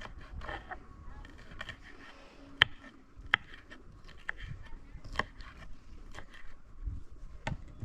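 Scattered sharp clicks and knocks of objects being handled, four of them standing out, with faint voices in the background.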